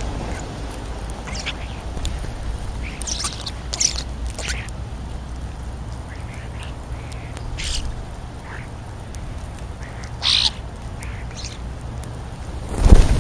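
Birds calling at a feeding spot: a scattered series of short calls, the loudest about ten seconds in, over a steady low rumble. A loud low rumble comes in near the end.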